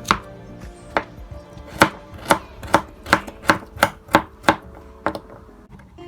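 Kitchen knife chopping carrots on a cutting board: about eleven sharp chops over five seconds, coming faster in the middle, then stopping.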